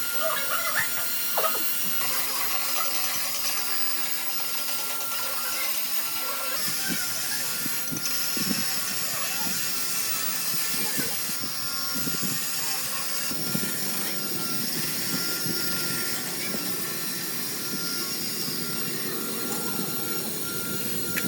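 Steady workshop machine noise, a hiss with a thin steady whine running under it, with brief voices now and then.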